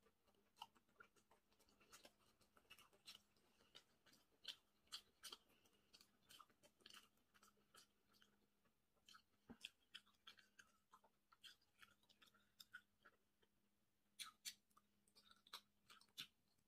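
Faint, close-miked chewing: a person eating, with many short, irregular mouth clicks and smacks.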